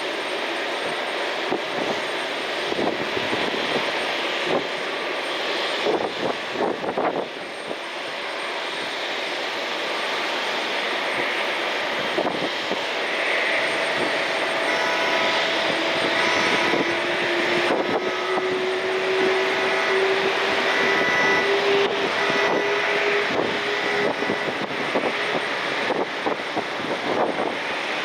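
Jet airliner engines running with a steady roar; from about halfway through, a turbine whine comes in and one of its tones slowly rises in pitch as the engines spool up.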